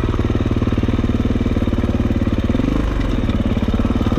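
Dirt bike engine running with a steady, even pulse, with a brief deeper rumble near the three-second mark.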